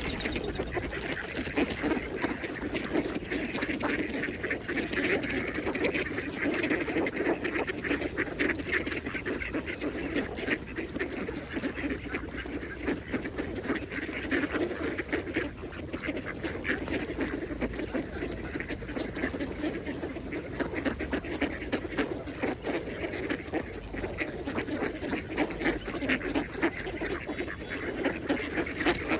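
Several mallard ducks feeding, with continuous overlapping quacking and chatter.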